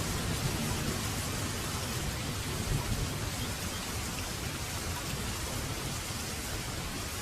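Steady rain falling on surfaces, an even hiss of many drops, with a low rumble of thunder fading away in the first few seconds.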